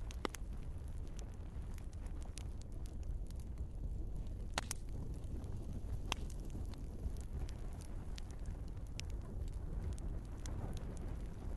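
Wood fire burning in a fireplace: a steady low rumble of the flames with irregular sharp crackles and pops from the burning logs, two of them louder about four and a half and six seconds in.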